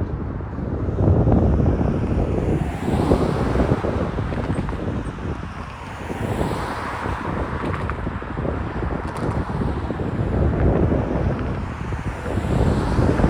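Freight cars of a BNSF manifest train rolling past a grade crossing: a steady noise of steel wheels on rail that swells and eases, with wind buffeting the microphone.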